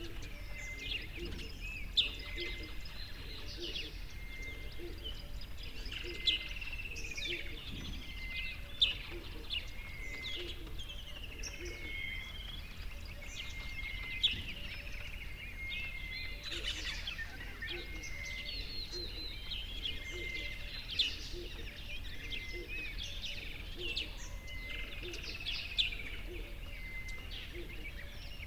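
Several birds singing and chirping without a break, with one short high note repeating about once a second. A few louder, sharper notes stand out every several seconds.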